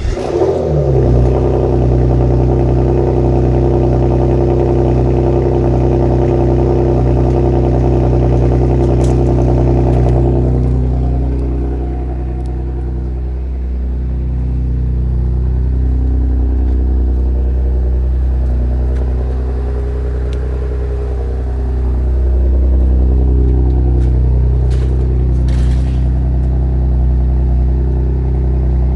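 Porsche Macan Turbo's twin-turbo V6 at a fast cold-start idle just after firing. The idle drops and settles about eleven seconds in, then runs on steadily.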